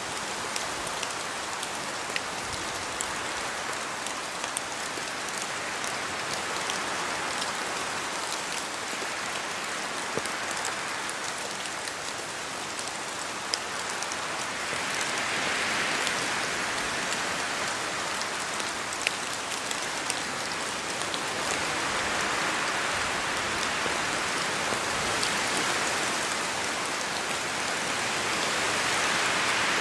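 Steady rain falling through forest trees, with many individual drops ticking through it. The rain swells a little in level about halfway through and again near the end.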